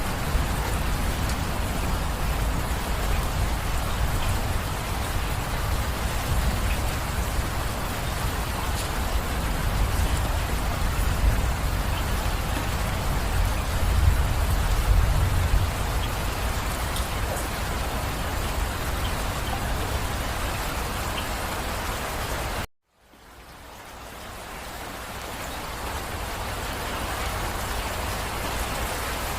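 Steady rain falling, an even hiss with a deep low rumble beneath it. About 23 seconds in it cuts to silence for an instant, then fades back in with less of the low rumble.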